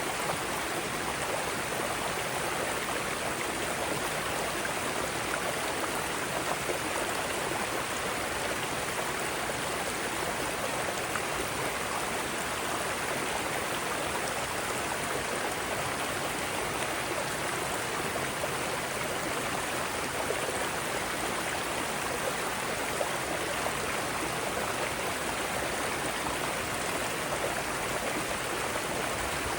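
Mountain stream cascading over rocks: a steady, even rush of water with no breaks or changes.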